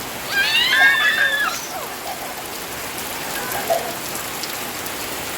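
Steady rain falling and pattering on surfaces. A child's high-pitched voice calls out loudly in the first second and a half, with a fainter call a little past the middle.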